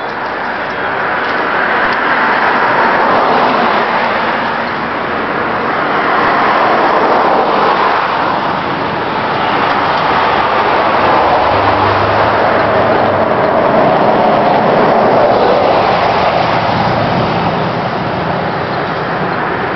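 1977 Chevrolet C10 pickup's engine running through a Flowmaster exhaust during a cold start, uneven at first, its rush swelling and easing off.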